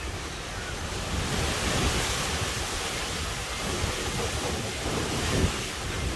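Steady rush of heavy rain with wind buffeting the microphone, swelling about two seconds in, with a brief knock near the end.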